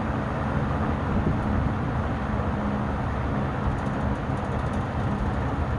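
Frigid SP20 five-blade 20-inch box fan with a Westinghouse motor running steadily on low speed: even airflow noise over a low motor hum.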